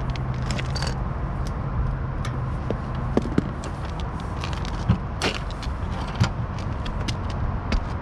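Hand tools and wiring being handled on an outdoor AC condenser during a fan motor swap: scattered small clicks and taps, a few sharper ones, over a steady low rumble.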